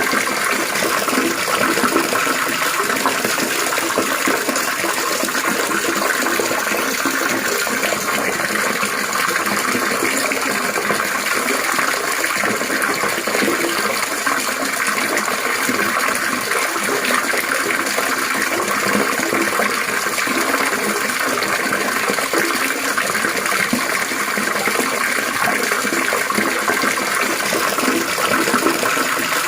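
Water trickling and splashing steadily and continuously, with no breaks.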